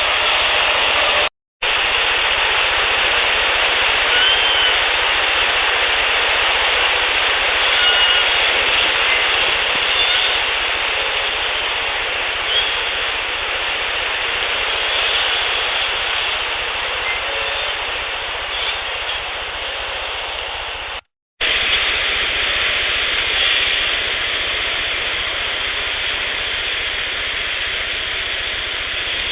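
Heavily amplified outdoor field recordings, mostly steady hiss, with a few faint short whistle-like tones now and then. The clips are cut together, with a brief silent gap about a second and a half in and another about 21 seconds in. The recordist presents the whistles as Sasquatch calls.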